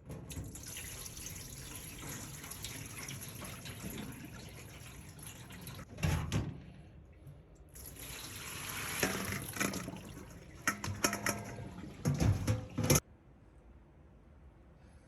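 Water from a kitchen tap running into a sink, in two spells with a short break between, with some splashing in the second; it cuts off suddenly near the end.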